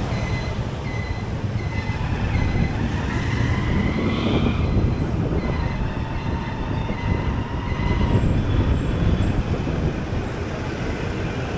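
Steady rumble of a motorcycle under way, its engine mixed with road and wind noise. Over the first few seconds a faint high beep repeats about twice a second.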